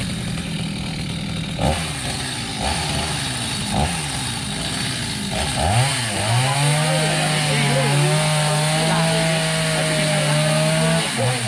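Two-stroke chainsaw idling with a few short blips of throttle, then revved up about six seconds in and held at high speed while cutting through the trunk of a storm-felled tree. The engine note dips briefly near the end and comes straight back up.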